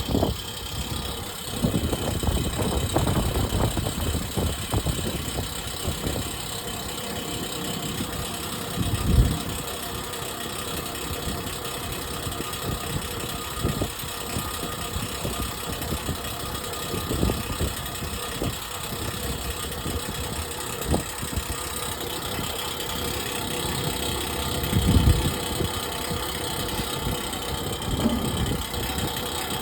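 Water truck's engine idling steadily while its air compressor builds air-system pressure, after a wire to the compressor has been reconnected. Two louder low thumps, about a third of the way in and again near the end.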